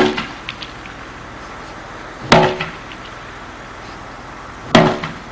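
A staff striking a tractor tyre: two hard blows about two and a half seconds apart, each with a short ringing boom.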